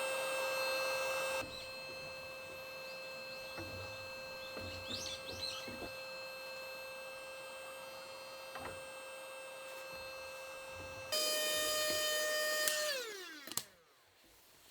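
A small electric motor running with a steady whine. It drops in level about a second and a half in, comes back louder and slightly higher near the end, then winds down in pitch to a stop.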